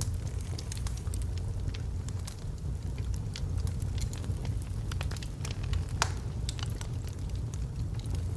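Wood logs burning in a fireplace: frequent sharp crackles and pops over a low, steady roar of the flames, with one louder pop about six seconds in.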